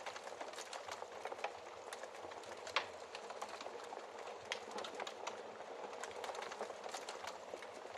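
Wood fire crackling in a fireplace: irregular sharp pops and snaps over a soft steady hiss of flames, with one louder pop about three seconds in.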